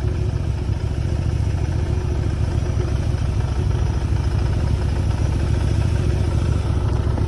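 Motorcycle engine running steadily while the bike is ridden, a dense low rumble throughout.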